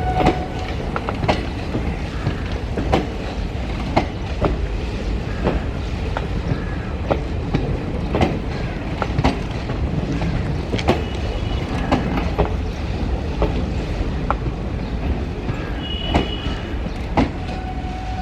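Passenger coaches of an express train rolling past, a steady rumble with the wheels clicking over rail joints at an uneven, unhurried pace, and a brief faint squeal near the end.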